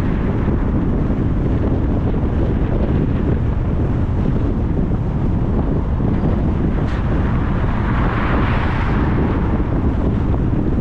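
Wind buffeting the microphone of a camera on a moving car, over a steady low road rumble, with a brief swell of hiss about eight seconds in.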